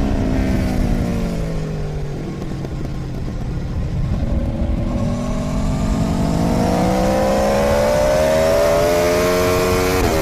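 Aprilia Tuono V4's V4 engine heard onboard at speed. The engine note falls as the bike slows for a corner, then rises steadily as it accelerates out, with a quick gear change near the end. Wind rushes over the microphone throughout.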